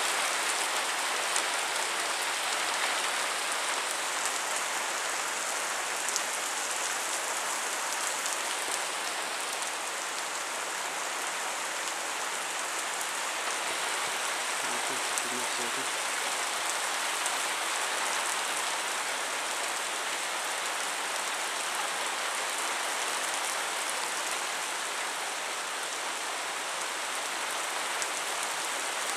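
Storm downpour: rain falling steadily in a dense hiss.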